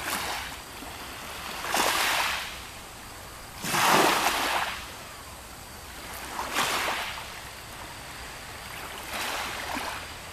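Small lake waves washing onto the shore, four surges about every two and a half seconds.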